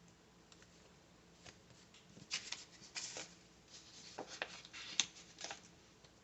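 Paper sticker sheets being handled: a run of short crinkly rustles and light clicks, busiest in the middle, as labels are peeled and pressed down.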